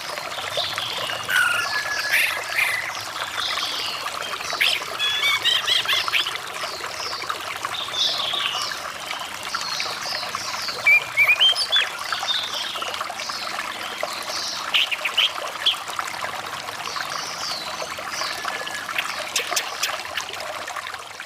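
Running water trickling steadily, with an orange-headed thrush singing over it in a run of varied chirps and warbled phrases.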